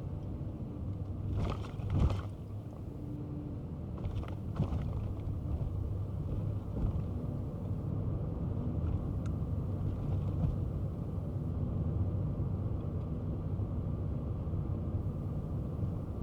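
Kei car driving along a road: steady engine hum and low tyre-and-road rumble, with a short knock or rattle about two seconds in, the loudest moment, and a few fainter ones about four seconds in.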